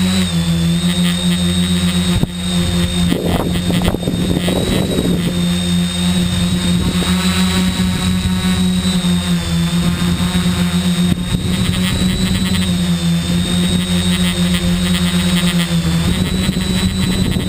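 Tricopter's electric motors and propellers buzzing steadily in flight, the pitch stepping slightly as the throttle shifts. About three to five seconds in, a rush of wind noise rises over it.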